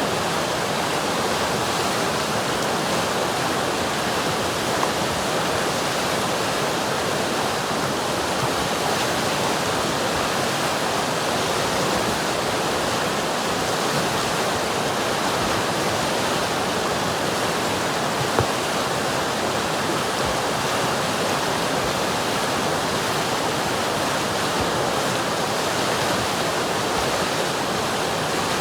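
River water rushing and babbling, a steady even sound with no change in level.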